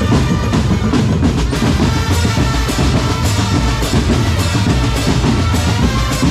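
A drum corps playing loud music, its drums beating a steady rhythm with bass drum and snare under held melodic tones.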